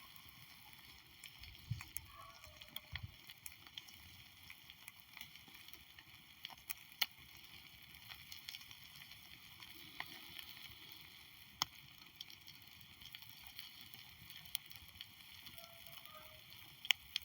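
Wood fire crackling, with sparse, irregular sharp pops over a faint steady hiss.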